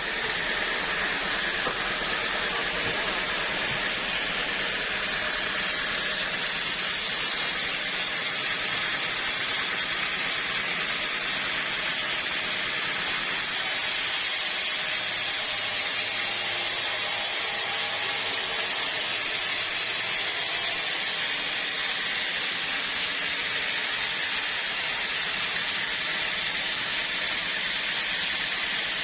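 Sawmill saw running steadily, a constant hissing noise with no breaks or changes in level.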